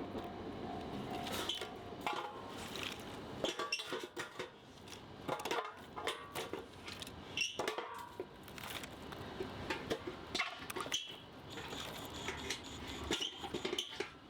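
Cutlery and dishes clinking in an irregular run of light clatter.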